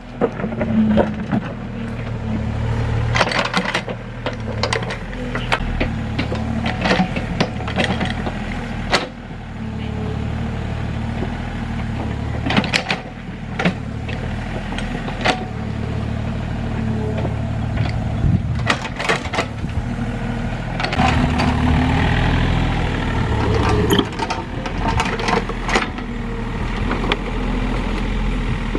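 Excavator's diesel engine running steadily while working, with repeated sharp knocks and cracks throughout.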